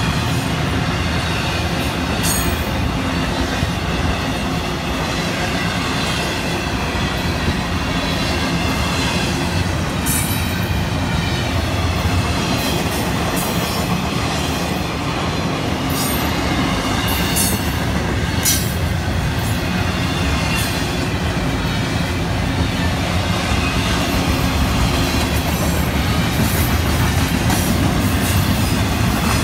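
Florida East Coast Railway freight train of double-stack intermodal well cars rolling past, a steady loud rumble and clatter of steel wheels on rail. Short high-pitched wheel squeals cut in a few times, around 2, 10 and 16 to 19 seconds in.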